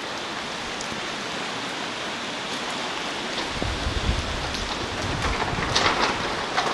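Heavy typhoon rain pouring down in a steady hiss, with wind gusting. A low rumbling gust swells about halfway through, and louder splashing spatters come near the end.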